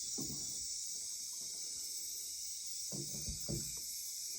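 Nighttime rainforest insect chorus, a steady high-pitched drone of crickets and other insects. A couple of short, low sounds come through about three seconds in.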